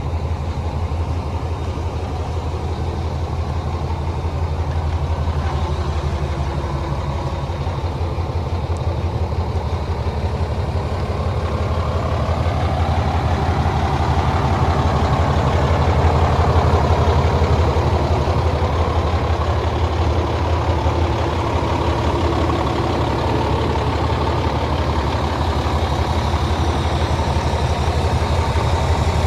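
Diesel engine of a 2005 International 8600 truck idling steadily, growing somewhat louder about halfway through.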